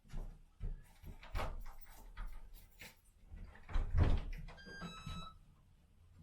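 A series of knocks and clunks from things being handled, the loudest about four seconds in, with a short high electronic beep just after it.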